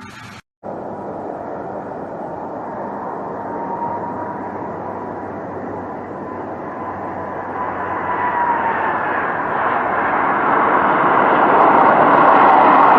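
Airplane engine noise starting after a brief cut about half a second in and growing steadily louder as the aircraft nears. A faint whine in the noise dips in pitch about two-thirds of the way through.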